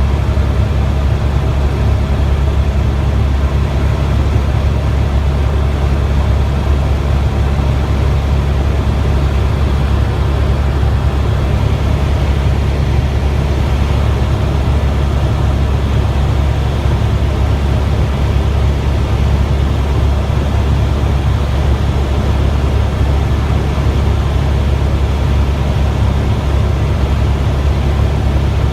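Helicopter in flight heard from inside the cabin: a loud, steady low drone of rotor and engine.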